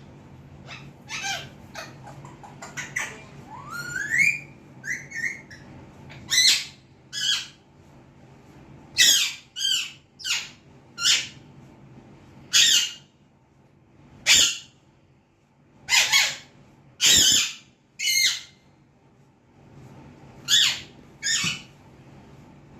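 Alexandrine parakeet squawking in a series of short, loud, harsh calls, roughly one every second, with a rising whistled note about four seconds in.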